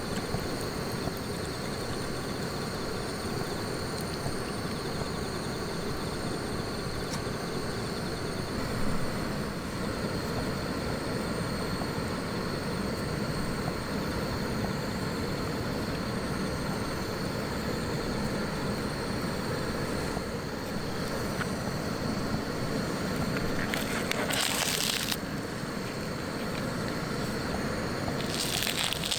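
Wood campfire burning steadily with small crackles, and two short hissing bursts near the end.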